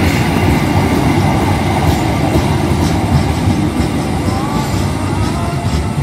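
Passenger train coaches rolling past on the track: a steady rumble of steel wheels on rails that slowly fades as the end of the train moves away.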